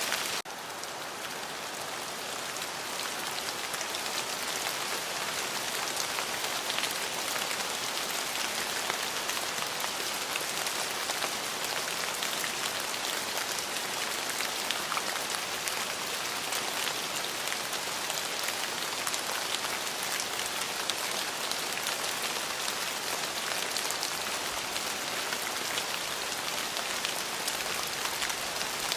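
Steady rain falling, with many individual drops ticking on a hard surface. The rain drops in level about half a second in, then builds back over the next few seconds.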